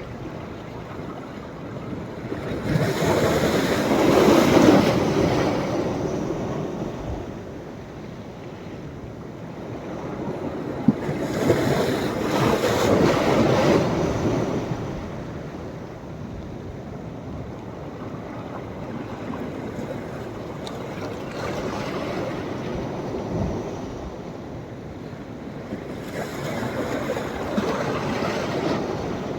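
Sea waves breaking and washing up the beach on a rising tide, swelling three times: about three seconds in, again around twelve seconds, and near the end. The first surge is the loudest.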